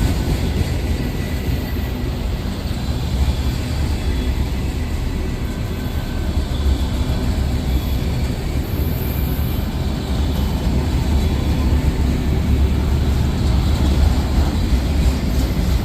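Freight train rolling past, a steady low noise of railcar wheels on the rails.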